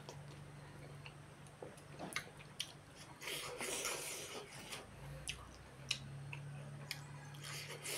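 Close-up mouth sounds of a person eating rice and chicken by hand: chewing with wet smacks and scattered small clicks.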